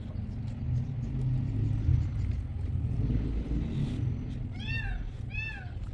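Two short animal calls near the end, each rising then falling in pitch, over a steady low rumble.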